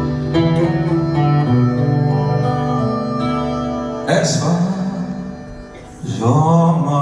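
Live band playing a rock ballad: held guitar and keyboard chords, then a sudden louder entry about four seconds in, and sung vocals coming in near the end.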